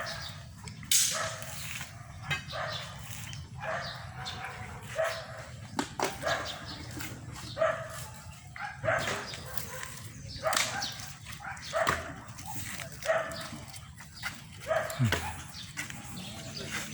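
A dog barking repeatedly, about once a second, over a steady low rumble.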